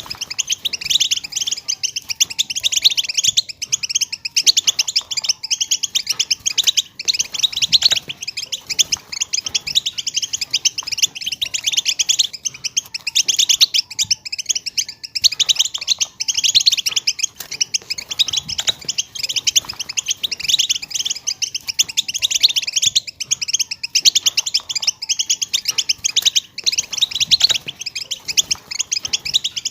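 Many European goldfinches twittering at once, a dense, unbroken chatter of rapid high call notes. These are female goldfinch calls of the kind played to caged males to set them singing.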